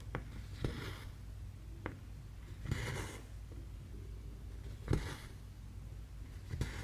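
Thread drawn through 11-count cross-stitch fabric in three swishes, with soft clicks of the needle piercing the cloth, over a low steady hum.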